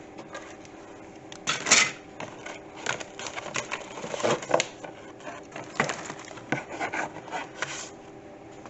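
A plastic scale model kit being unpacked by hand: the cardboard box and the bagged plastic parts rustle and click in irregular bursts, with the loudest crackle about two seconds in. A faint steady hum runs underneath.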